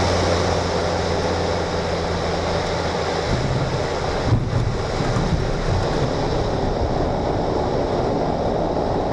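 Cessna 208 Caravan's single turboprop engine and propeller running, heard inside the cabin with heavy airflow noise during a gusty crosswind landing. The steady engine tone changes about three seconds in, and a few bumps follow about four to five seconds in as the wheels meet the runway.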